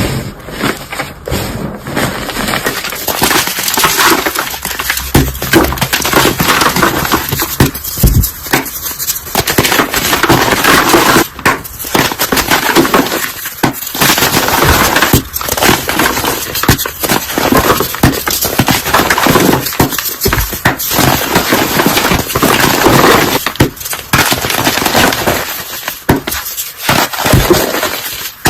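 Dense crunching and crackling of brittle things being crushed for ASMR, sharp snaps following one another almost without pause, broken by a few brief gaps.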